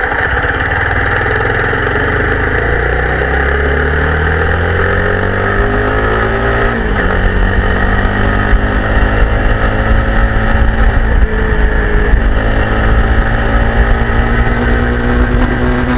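TVS Apache RTR 160 4V's single-cylinder engine running through its exhaust. The note climbs steadily, drops suddenly about seven seconds in, then holds and slowly rises again.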